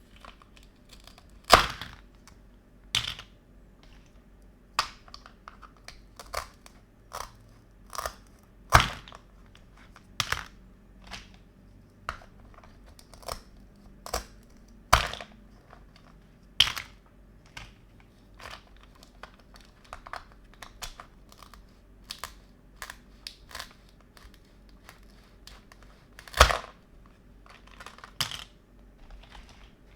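Small plastic toy kitchen pieces being handled: irregular sharp clicks and clacks, a few of them louder knocks.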